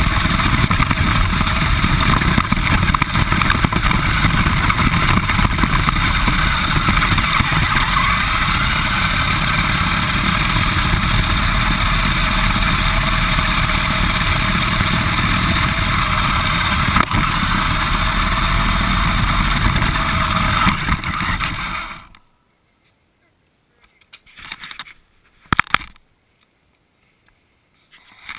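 RC car driving, heard from a camera mounted on it: loud, steady motor and running noise that cuts off suddenly about 22 seconds in, followed by a few brief knocks.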